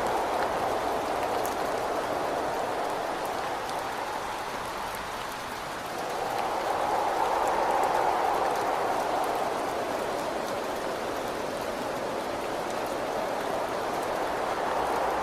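Rain hitting a window with wind whistling, the wind swelling and easing in gusts: it dies down about five seconds in and builds again a couple of seconds later.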